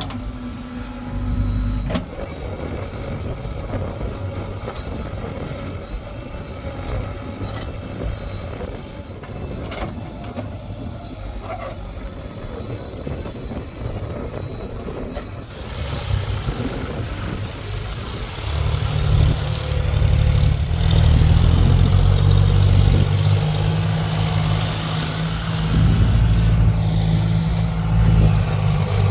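Heavy diesel engine of earth-moving machinery running through the loading work, steady at first, then louder and working harder from about two-thirds of the way in.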